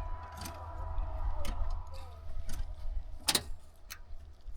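Scattered clicks and knocks over a steady low rumble, with one sharp click a little over three seconds in.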